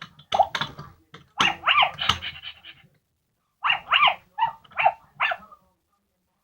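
Zoomer Zuppies robot puppy toy playing electronic puppy barks and yips through its small speaker, in two quick runs with a short pause between, some yips sliding down in pitch.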